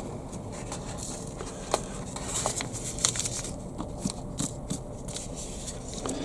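Scattered small clicks, ticks and scrapes of hands handling seeds, pots and compost while sowing lettuce seeds, over a steady low background rumble.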